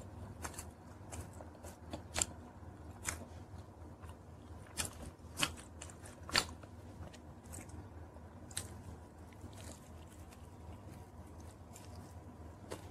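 Close-miked chewing of a slice of pizza: irregular wet mouth clicks and smacks, a few louder ones in the middle, then a bite into the slice near the end.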